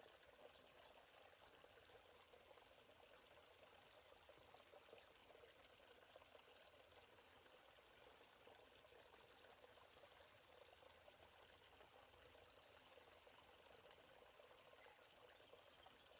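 A steady, high-pitched chorus of insects such as crickets, with a faint trickle of stream water beneath it.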